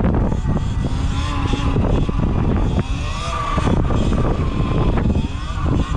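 Motorcycle ride heard through a helmet-mounted microphone, dominated by heavy wind buffeting, with the engine's pitch rising and falling underneath a few times.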